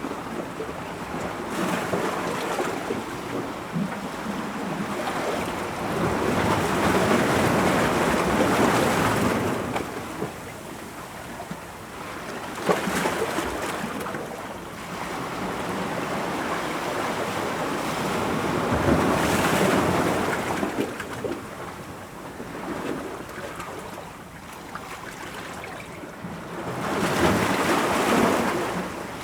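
Ocean waves breaking on rocks, a steady wash of surf that swells into several louder surges and falls back between them, with a brief sharp splash about halfway through.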